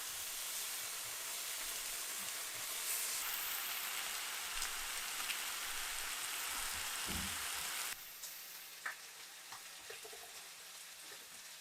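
Food sizzling as it fries in a pan: a steady hiss that drops abruptly about eight seconds in, leaving a quieter sizzle with a few light clicks.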